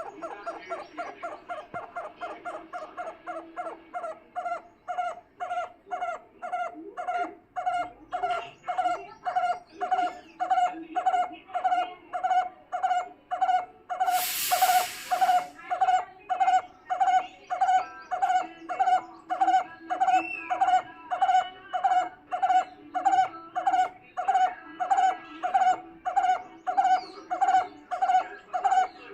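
A bird calling over and over in an even rhythm, about three short calls every two seconds. About halfway through there is a brief burst of hiss.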